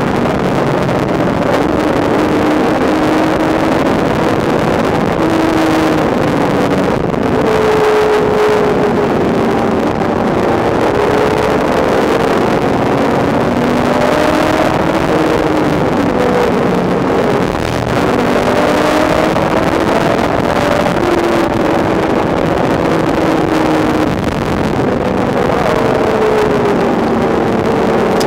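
Porsche 996 GT3 RS's 3.6-litre flat-six heard from inside the cabin while driven at speed on track, its note repeatedly climbing and falling with acceleration and lifting, over steady road and wind noise.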